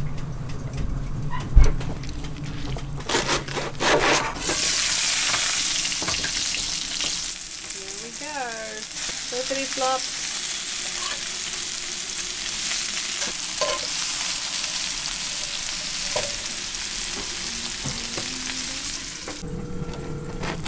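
Fish burger patties sizzling steadily as they fry in a pan, from about four seconds in until near the end. Before that, a spoon clinks in a stainless steel bowl, with one sharp knock.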